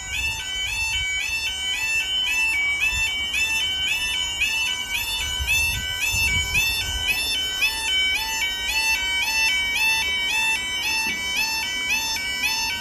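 Level crossing audible warning alarm sounding: a loud electronic yodel, a high stepped two-note warble repeating rapidly without a break.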